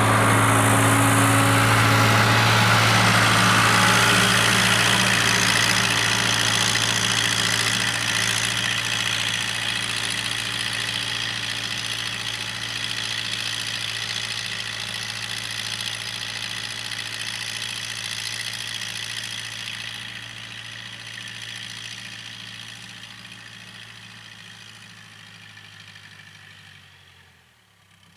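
Case 580K loader backhoe's diesel engine idling steadily, slowly growing fainter. Near the end its pitch sinks and it stops as the engine is shut off.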